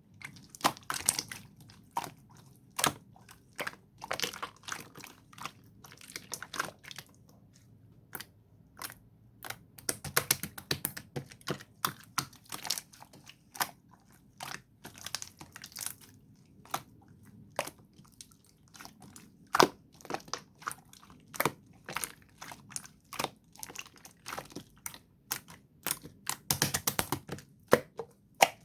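Slime being squeezed and poked by hand, giving irregular sharp clicks and pops, with a quick flurry of them near the end.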